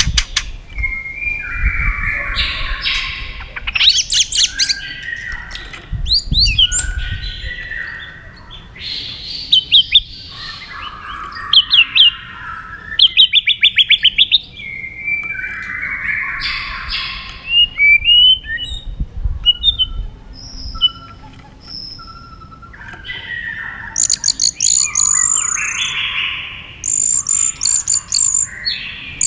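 White-rumped shama singing a long, varied song: loud phrases of whistles and buzzy notes broken by fast rattling series of notes, with high thin whistles near the end.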